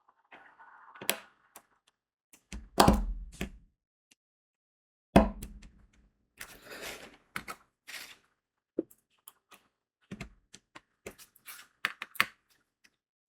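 Diamond painting work sounds: scattered light clicks and taps of crystal beads being pressed onto the sticky canvas. Two heavier thunks come about three and five seconds in, and a short rustle comes around seven seconds.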